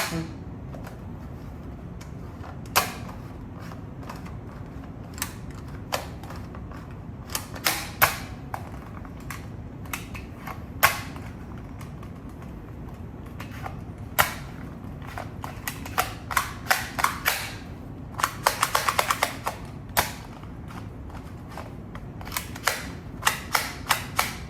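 Irregular sharp clicks and clacks of hard toy pieces being handled, with a quick rattling run of about ten clicks about three quarters of the way through.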